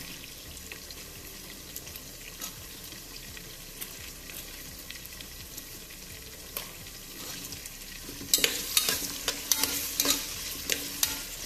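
Onions and tomatoes frying in oil in a pressure cooker, with a steady soft sizzle. About eight seconds in, a slotted metal spatula starts stirring, scraping and clicking against the pot.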